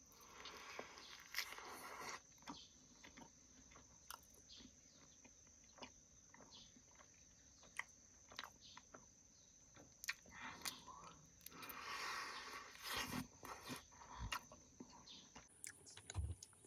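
Faint, wet chewing and small sticky mouth clicks of someone eating honey, with a faint steady high tone underneath.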